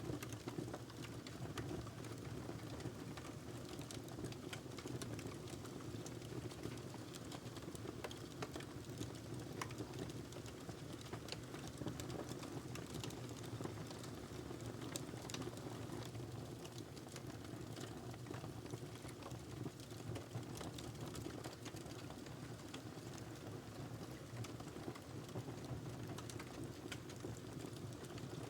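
Wood fire crackling in a fireplace: many small, sharp snaps and pops at irregular intervals over a steady low rush.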